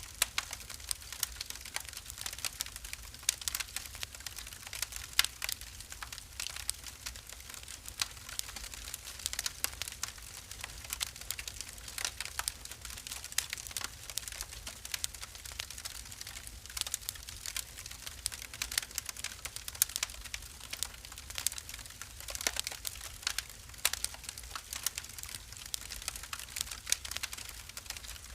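Wood fire burning in a fireplace, crackling with many irregular sharp pops and snaps over a faint low rumble.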